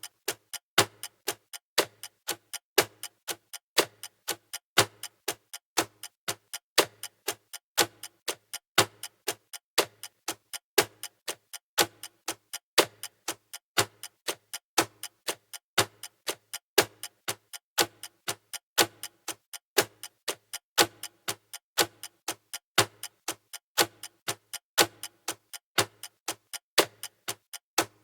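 Clock-like ticking sound effect of a countdown timer: several crisp ticks a second, with a louder tick once a second, keeping an even rhythm throughout.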